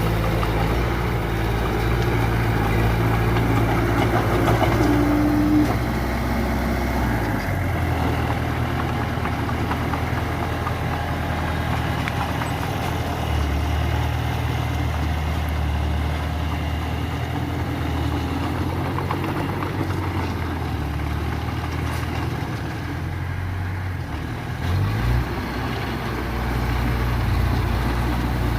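Diesel engine of earthmoving machinery running steadily. Its pitch steps down about seven seconds in and shifts again a few times, with a short rise and fall in engine speed near the end.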